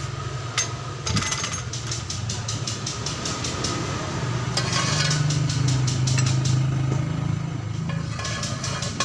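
An engine running steadily, a little louder in the middle, with a fast, even clicking over it.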